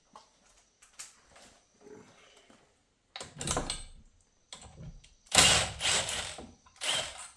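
Metal transmission parts and hand tools being handled: a few light clicks, then several scraping, rattling bursts of half a second to a second each, the loudest about halfway through.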